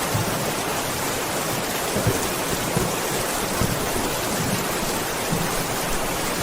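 Steady rain falling in an even hiss, with a few low rumbles of thunder between about two and five seconds in.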